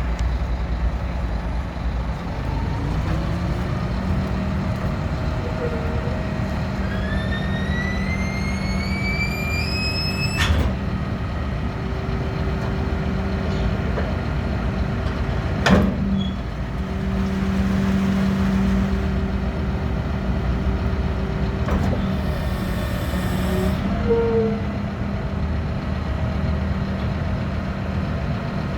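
Scania P310 garbage truck with a Geesink Norba compactor body, its diesel engine running steadily. A rising whine builds over a few seconds and ends in a sharp bang. A second loud bang follows a few seconds later, and a brief hiss comes near the end.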